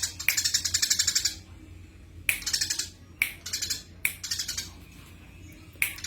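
Eurasian tree sparrow giving fast rattling chatter calls. A burst of about a second comes near the start, then several short bursts follow with pauses between them.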